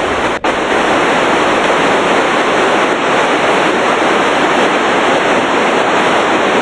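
Steady, loud hiss of radio static from a police scanner, heard while a channel is open with no voice on it, with a brief dropout about half a second in.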